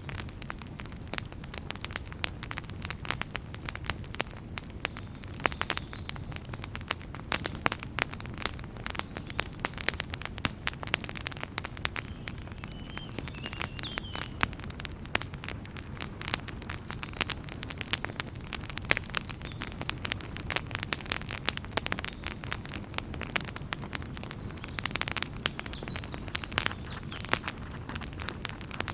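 Wood fire crackling: dense, irregular small pops and snaps over a low steady rumble of the flames.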